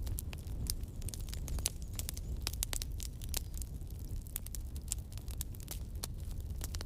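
Campfire crackling and popping, irregular sharp snaps of burning wood over a low steady rumble of the flames.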